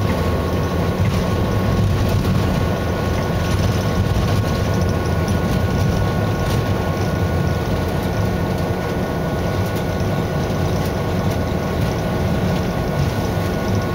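Diesel-electric locomotive running, heard from inside its cab: a steady, heavy drone of the engine and the rolling train, with two faint steady whining tones above it and scattered light clicks.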